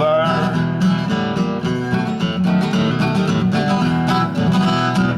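Live country band playing the closing instrumental bars of a song: strummed acoustic guitar over a bass line, dropping off sharply just before the end.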